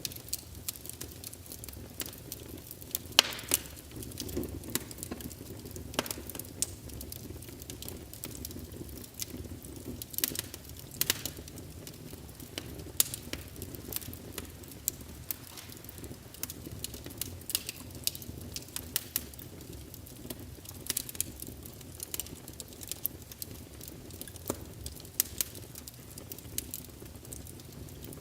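Wood fire burning in a fireplace: a steady low hiss and rumble of the flames under frequent sharp crackles and pops, a few of them louder, about 3 and 11 seconds in.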